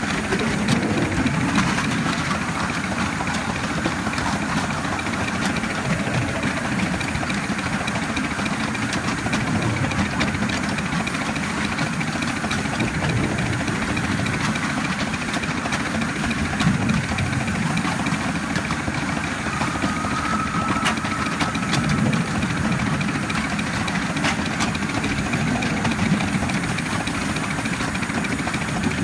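Live-steam 7¼-inch gauge model of a Baldwin C-19 steam locomotive running, heard from the cab: a steady low rumble of wheels and running gear.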